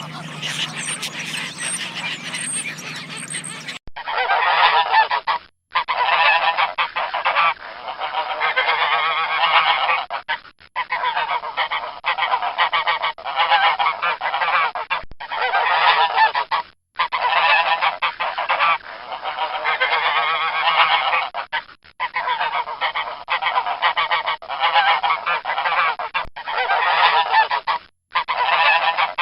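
Geese honking loudly, many calls overlapping without pause. About four seconds in the recording changes, and from then on it breaks off briefly every few seconds, like a string of short clips joined together.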